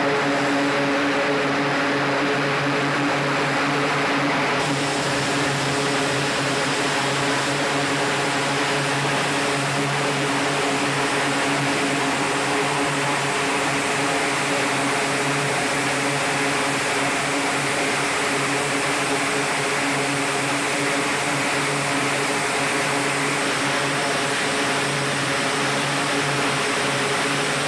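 Aircraft engine running steadily: a continuous drone with a steady hum of several pitches over a rushing noise.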